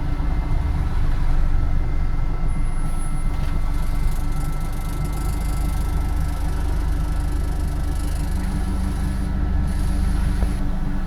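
Scania Omnidekka double-decker bus on the move, heard from on board: a steady engine drone and road rumble with a faint constant whine above it.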